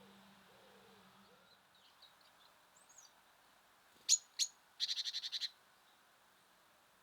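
Small songbird calling at a feeder: two sharp, high calls about a third of a second apart, then a quick run of about eight notes, after faint chirping. Low dove cooing fades out in the first second and a half.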